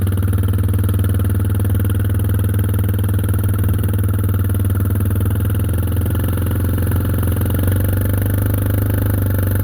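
Classic farm tractor's engine running at a steady speed, an even low drone that holds unchanged.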